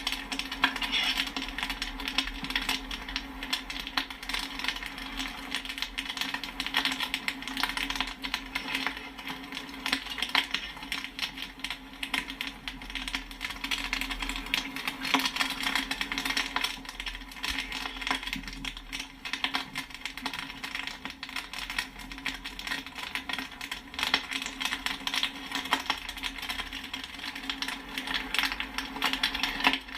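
Popcorn popping and pinging steadily, many sharp pops every second in an irregular patter, over a steady low hum.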